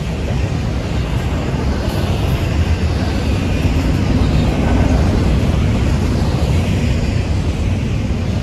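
Freight train rolling past close by: a loud, steady rumble that swells slightly about halfway through.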